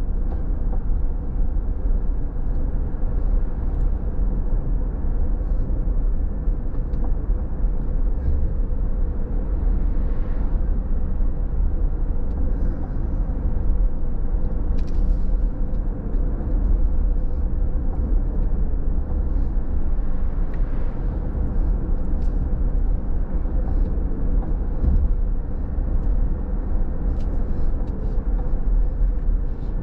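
A car being driven: a steady, low rumble of engine and tyres on the road, with a faint steady hum over it.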